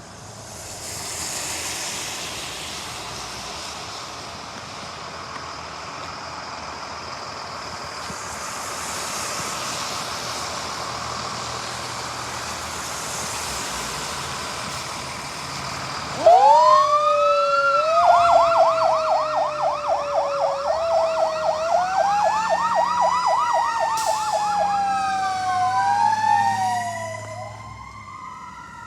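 A steady rushing noise, then about halfway through emergency vehicle sirens start with a rising wail, switch to a fast yelp, and go back to slower wails, with two siren tones crossing each other before they fade away near the end.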